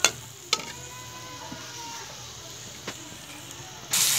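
Sliced onions frying in ghee in a metal wok: a steel ladle clinks against the pan twice near the start and once more about three seconds in over a low sizzle, then a much louder, steady sizzle starts suddenly near the end.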